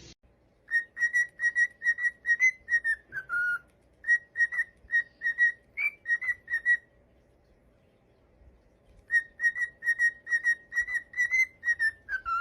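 Parrot whistling a rapid string of short notes on one pitch, about three a second, with now and then a note that slides down. It breaks off for a couple of seconds midway, then starts again.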